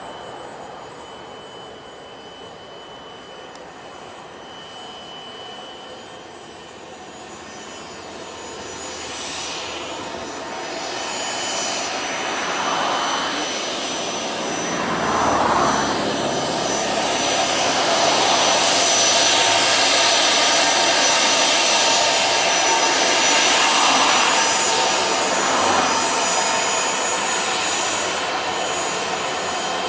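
Twin turbofan engines of a Cessna 680 Citation Sovereign business jet, a rushing jet noise with a high whine. It grows louder over about ten seconds, stays loud for several seconds, then eases off slightly near the end.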